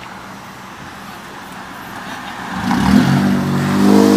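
A car engine runs faintly at first, then about two and a half seconds in revs up loud and holds at steady high revs.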